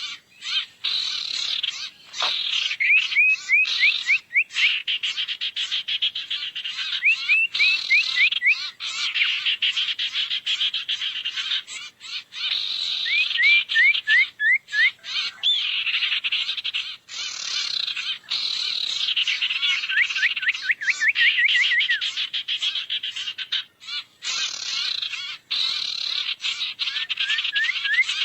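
Sirtu bird lure recording: a dense, continuous chatter of high chirps, broken every few seconds by a short run of quick rising notes.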